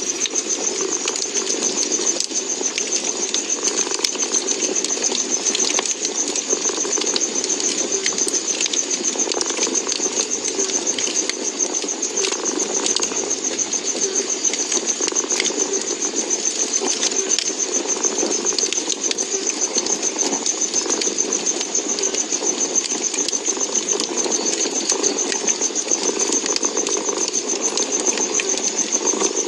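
Domestic cat purring steadily and continuously, over a wood fire crackling with scattered small pops and snaps.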